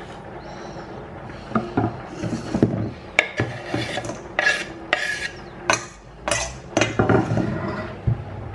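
A run of short, irregular rubbing and scraping strokes with light clinks, like household items or dishes being handled, starting about one and a half seconds in.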